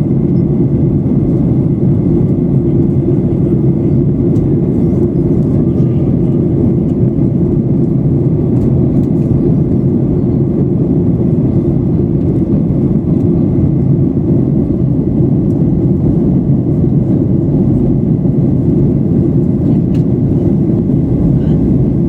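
Steady cabin noise inside a Boeing 737-800 in flight: the even, deep rush of its CFM56 jet engines and airflow over the fuselage, unchanging throughout.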